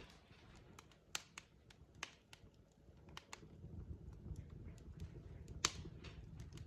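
Wood fire crackling in a fireplace: irregular sharp pops and snaps from the burning logs over a soft low rumble, with one louder pop near the end.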